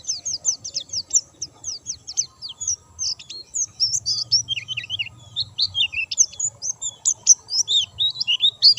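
White-eye (pleci) singing a rapid, continuous song of quick high chirps and falling notes, with hardly a pause; the song dips a little lower in pitch in the middle. The bird is in full, vigorous song.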